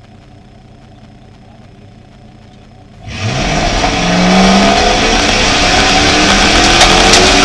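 Jeep Grand Cherokee rally car's engine idling, heard from inside the cabin, then about three seconds in it goes to full throttle. The engine revs hard with its pitch climbing through the gears, over tyre and gravel noise, with a few sharp stone ticks near the end.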